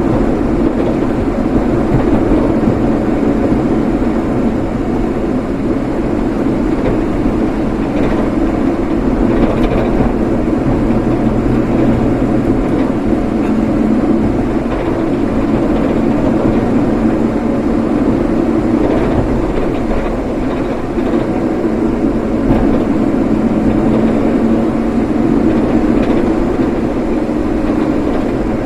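Steady road and engine noise of a vehicle being driven, an even low hum with no sudden events.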